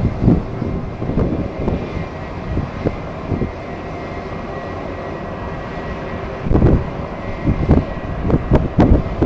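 Jet airliner engines running, with a faint steady whine, while gusts of strong wind buffet the microphone in irregular rumbling bursts, heaviest in the last few seconds.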